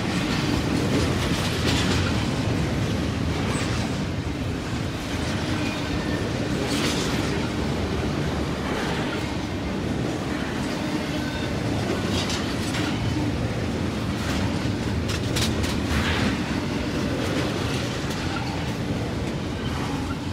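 Double-stack intermodal freight train's well cars rolling past close by: a steady rumble of steel wheels on the rails with clickety-clack over the joints, broken by a few short, sharp clanks.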